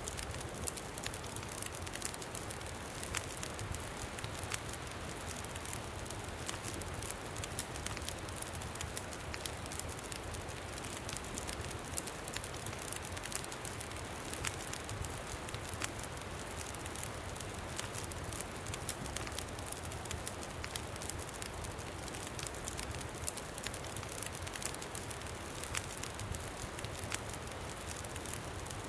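Campfire crackling steadily with frequent small pops, over a low rumble of wind.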